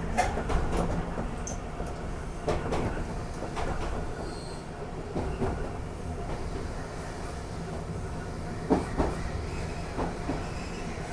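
Randen (Keifuku) electric car running along the track, a steady rumble with sharp wheel clacks over rail joints every few seconds, mostly in quick pairs. There is a brief, faint high squeal about four seconds in.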